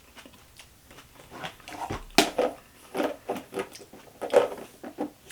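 Close-miked chewing and mouth sounds of a man eating egg salad: a string of short, wet clicks and smacks starting about a second and a half in.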